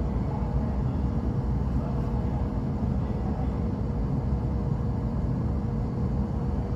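Steady low rumble inside a moving E7-series Shinkansen car, with a faint steady hum running through it.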